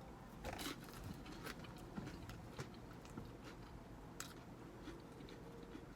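Close-up eating sounds: chewing, with a few short mouth clicks and small crunches.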